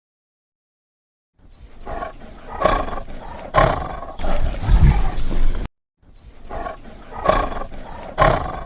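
An animal calling in a few loud, deep calls, the same clip of about four seconds played twice with a brief silence between.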